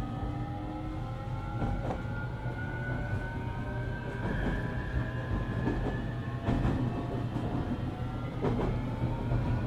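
Onboard sound of a JR Kyushu 817 series electric train running, its traction motors whining in several tones that slowly rise in pitch as it gathers speed, over a steady rumble. A few rail-joint clacks come through. This is an unusual-sounding unit whose motor sound is likened to that of the Keio 7000 series.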